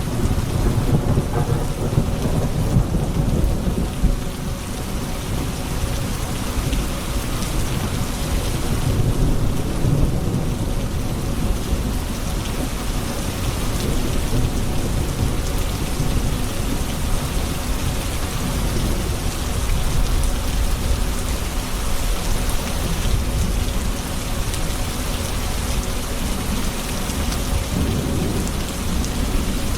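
Steady rain falling during a thunderstorm, with deep rolling thunder rumbling underneath. The thunder swells in the first few seconds and again about a third of the way through.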